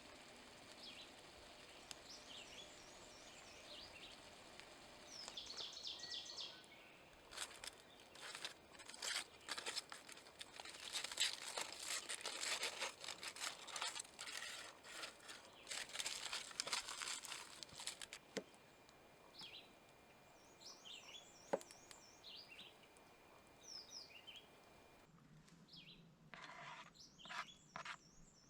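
Small birds chirping and singing in short repeated phrases, over faint outdoor background noise. From about 8 to 18 seconds in, a stretch of dense crackling and rustling joins them.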